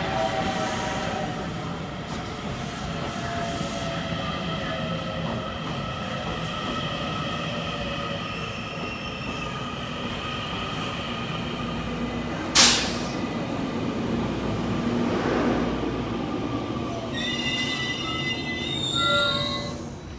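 Taiwan Railways local commuter train pulling into a station platform: steady running rumble with squealing wheels, and one sharp loud clack about twelve and a half seconds in. Near the end there is a short run of stepped, chime-like tones.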